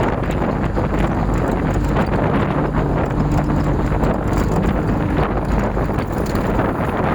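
Wind buffeting the microphone, a loud steady rush, with a faint low hum underneath.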